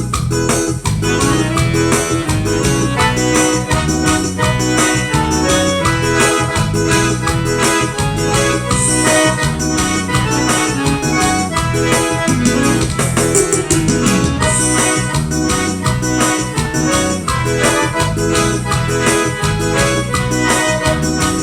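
Forró band playing a song's instrumental introduction: accordion and keyboard melody over bass and a steady beat.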